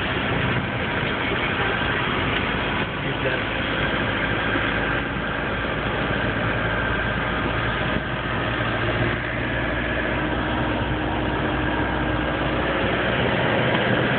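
Vehicle engine running with steady road noise, heard from inside the cabin while driving on a rough dirt road.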